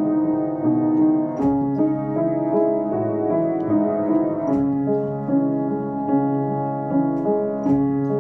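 Solo piano playing a Hungarian folk-style piece: steady chords with notes changing about every half second over a held low bass.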